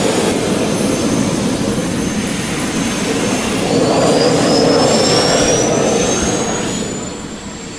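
Jet turbine engine running loud, with a high whine that rises steadily in pitch from a little before halfway; the sound fades in the last second.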